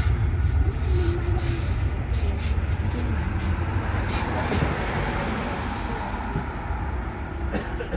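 Airplane's engines rumbling during takeoff: a steady deep roar that slowly gets quieter.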